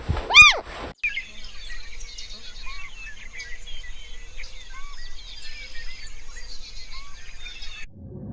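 A loud call that rises and falls in pitch, then a dense chorus of many small birds chirping and twittering, with a few lower whistled notes. The chorus cuts off abruptly near the end.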